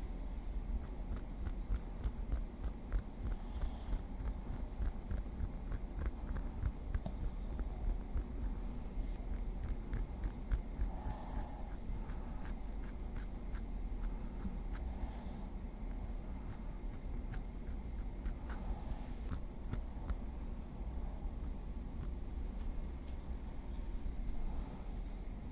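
Small wooden stick tapping lightly, a continuous run of small, uneven clicks.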